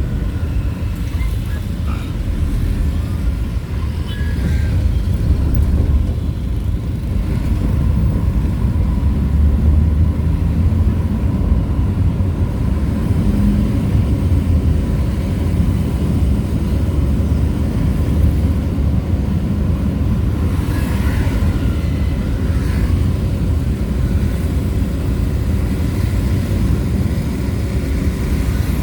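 Steady low rumble of a vehicle driving along a road, with engine, tyre and wind noise running unbroken.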